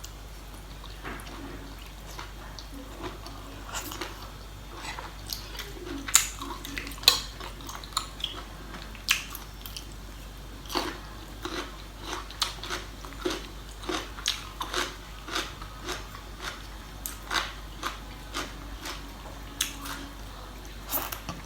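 A person chewing and biting into crunchy food close to the microphone, eating spicy seafood papaya salad with squid. Irregular short crunches come roughly once or twice a second throughout.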